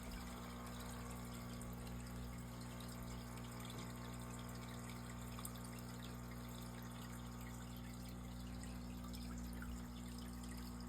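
Aquarium filter running: a steady trickle of water with a low, constant motor hum.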